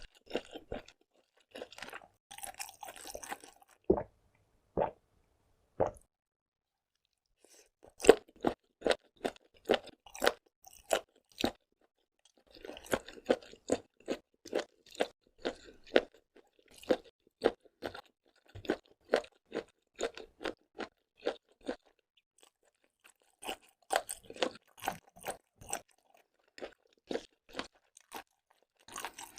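Close-miked mouth sounds of someone chewing seafood, with crunching, at a steady rhythm of about two chews a second; a few separate bites near the start, then a short pause before the steady chewing.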